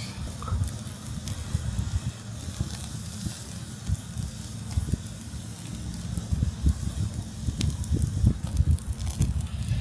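Jumbo chicken skewers grilling over a campfire in a fire pit: the fire crackles with scattered sharp pops, over a steady hiss and a low, uneven rumble.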